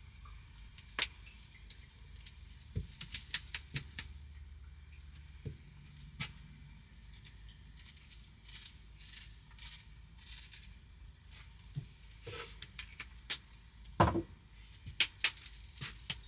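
Scattered sharp clicks and knocks, some in quick clusters, over a low steady hum.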